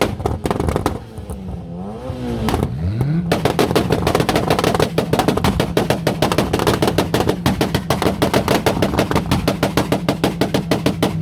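Car engine revved a few times, its pitch dipping and climbing, then held high with a rapid, even stutter for the rest of the time.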